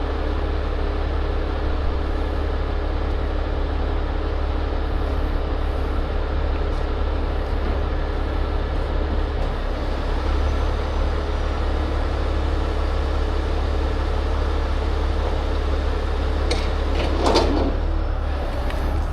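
Heavy tow truck's diesel engine running steadily, a deep even rumble. A brief, louder sound stands out near the end.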